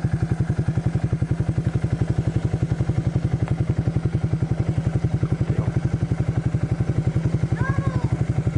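Four-wheeler engine idling steadily with an even, fast chugging beat of about eight pulses a second.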